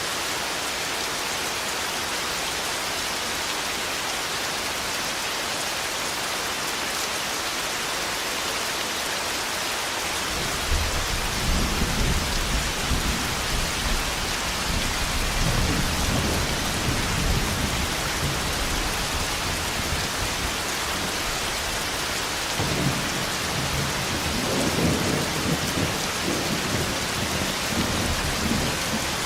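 Thunderstorm: steady rain hissing. About a third of the way in, a long roll of low thunder rumbles in, lasting over ten seconds, and a second roll builds near the end.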